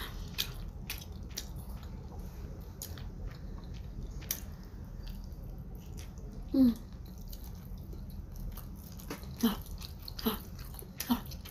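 Close-miked eating of salmon sushi by hand: soft wet mouth clicks and smacks of biting and chewing, scattered through, with a brief hum from the eater about six and a half seconds in.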